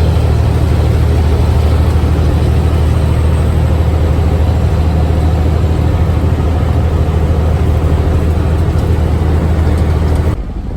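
Log truck's diesel engine running with a steady low rumble and road noise, as heard from the cab; it cuts off abruptly near the end.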